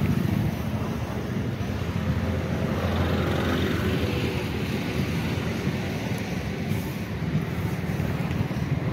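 Passenger train coaches rolling past on the rails with a steady rumble of wheels on track.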